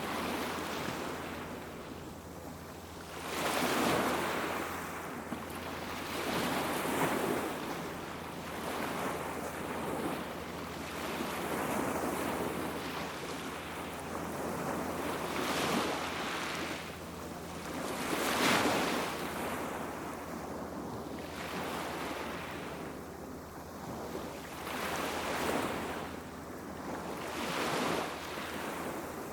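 Small sea waves breaking and washing up the shore of a beach, each swell rising and easing every two to three seconds. Two waves, about three seconds in and near the middle, are louder than the rest.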